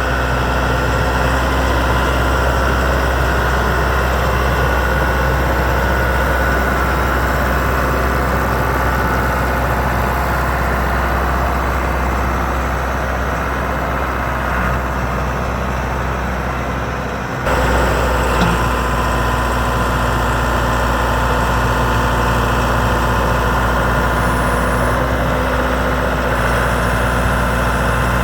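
John Deere 5425 tractor's four-cylinder diesel engine idling steadily, with a sudden break about two-thirds of the way through after which the same idle carries on.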